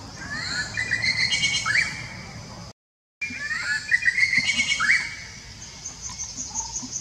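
Wild birds calling in the tree canopy: repeated short rising chirps with higher trills over them. The sound drops out completely for about half a second, about three seconds in.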